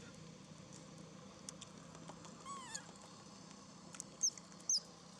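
Baby monkey calling: one short call about halfway in, then two sharp high squeaks close together near the end, with a few faint clicks.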